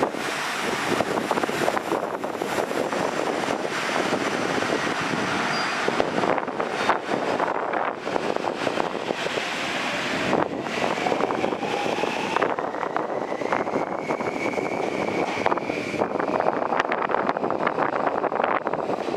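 Local electric train on the JR Nanao Line running past below a station footbridge, a steady rumble and clatter of wheels on rail with wind buffeting the microphone. A faint rising whine comes in about halfway and fades a few seconds later.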